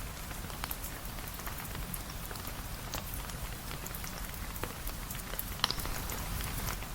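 Rain falling steadily, an even hiss with scattered sharp drop ticks, one louder tick a little past halfway.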